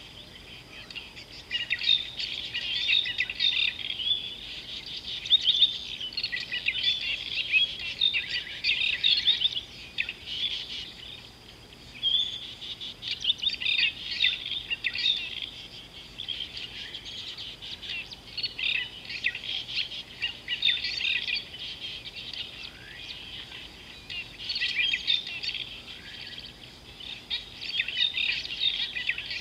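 Wild birds chirping and calling together, in bursts of rapid chirps that swell and fade every few seconds.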